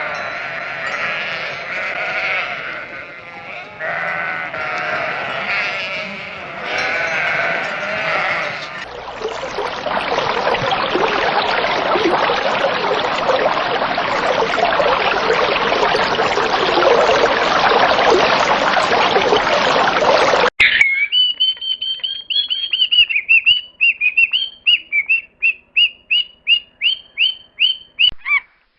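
A run of animal calls. First there are several seconds of pitched calls. Then comes a dense, noisy chatter of many sounds at once, and about two-thirds of the way in it cuts to a series of short high chirps that repeat faster and faster toward the end.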